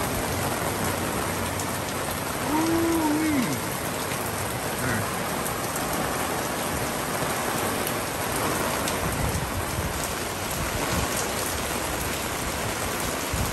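Heavy rain falling steadily on the fabric awning overhead and the trees beyond.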